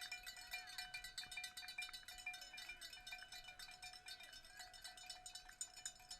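A bell shaken rapidly and without a break, a faint metallic clanging with a steady ring under it.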